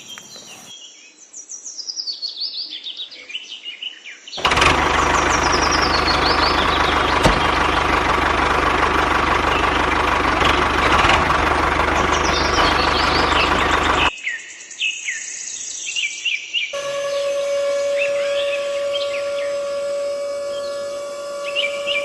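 Birds chirping in quick falling calls, cut off about four seconds in by a loud, steady engine-like drone. The drone runs for about ten seconds and stops abruptly. Chirping returns over a steady hum.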